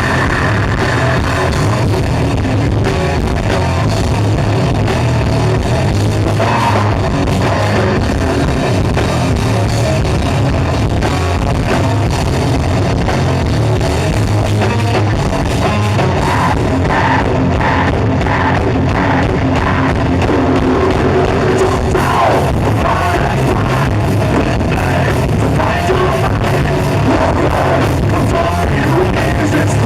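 Heavy rock band playing live at full volume: electric guitars, bass and drum kit, with a singer's voice coming in over the band from about halfway through.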